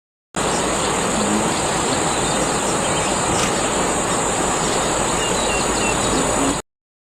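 Steady outdoor rushing noise with a constant high insect drone and a few faint bird chirps, cutting in and out abruptly at the edit points.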